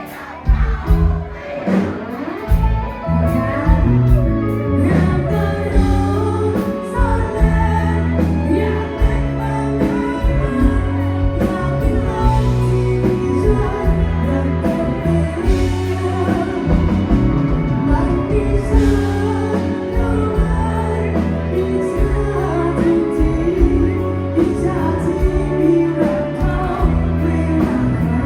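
Live band playing a song with a singer, over a steady drum beat and bass line.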